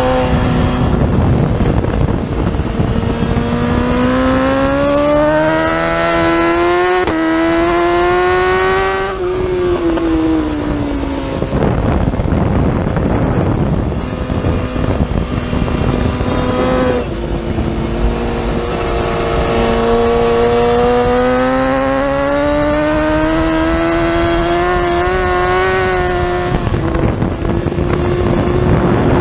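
BMW S1000RR's inline-four engine heard from on board, its pitch climbing for several seconds under acceleration, dropping as the rider backs off, then climbing again in a second long pull before dropping once more near the end. A steady rush of wind noise runs underneath.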